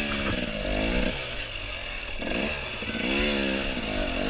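Dirt bike engine revved up and down in repeated bursts of throttle, easing off for about a second midway before revving again, as the bike crawls slowly over slippery ground.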